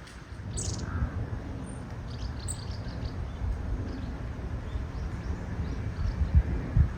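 Japanese bush warbler giving short, high chirping call notes in scattered clusters, over a steady low rumble.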